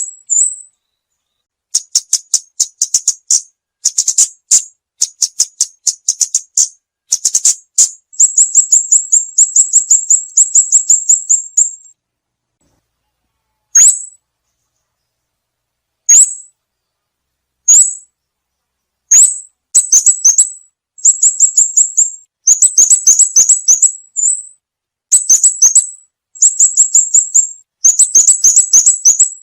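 A small songbird known in Vietnam as the ốc mít, singing in bursts of rapid, very high-pitched chirps run together into trills, with a stretch near the middle of only single chirps a couple of seconds apart.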